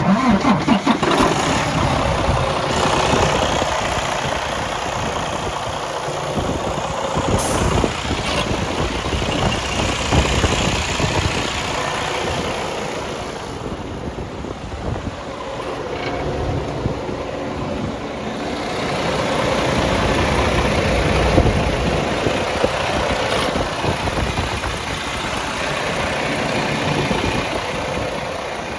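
Diesel engine of a 2019 Freightliner Cascadia semi truck starting up, its pitch rising briefly as it catches, then idling with slow swells in level.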